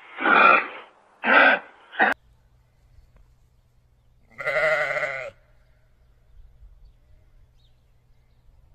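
An animal calling: two short calls in the first two seconds, a sudden cut, then one longer call about four and a half seconds in, over a faint low hum.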